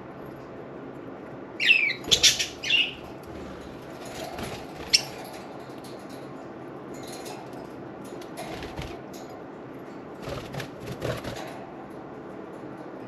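Budgerigars bathing in a fountain: short flurries of wing-flapping and splashing come and go, with a quick burst of sharp chirps about two seconds in. A steady hiss of running fountain water lies underneath.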